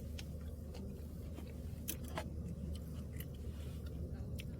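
A person chewing and biting food close to the microphone, with scattered sharp clicks over a steady low rumble.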